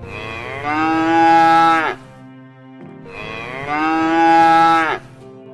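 Cow mooing twice: two long calls, each about a second long, with the pitch dropping at the end of each.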